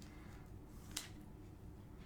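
Quiet room tone with a single short click about a second in.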